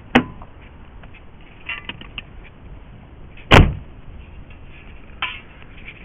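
Metal knocks and clatter as a bent sheet-steel repair panel is fitted into a car floor: a sharp knock at the start, a few light clicks about two seconds in, one heavy thump about three and a half seconds in, and another knock near the end.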